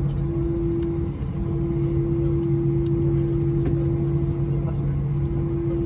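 Airbus A320 cabin noise with the IAE V2500 engines running at low power: a steady two-note hum over a low rumble, the hum dropping out briefly a couple of times, with a few faint ticks.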